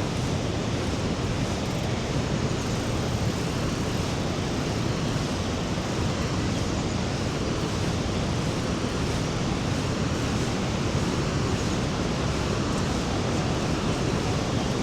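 Steady rushing roar of the Rhine Falls, a large waterfall, an even noise with no breaks.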